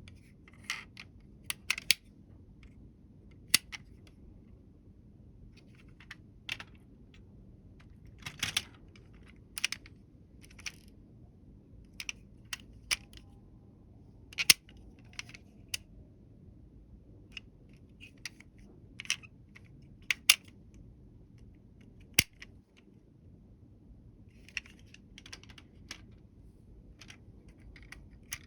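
Small die-cast toy vehicles clicking and clinking as they are handled and set down on a hard surface. The sharp taps come irregularly, one or two a second, sometimes in quick little clusters.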